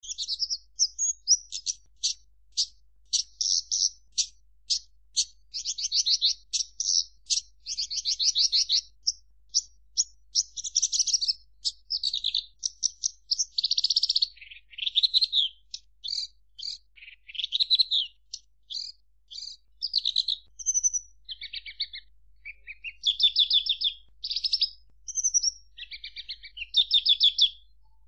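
Branjangan (Horsfield's bush lark) singing a long continuous song of rapid repeated high notes, trills and buzzy phrases, changing from phrase to phrase.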